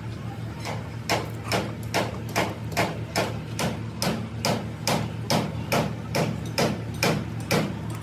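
Hammer blows in a steady rhythm, about two to three a second, starting shortly after the beginning, over a steady low hum.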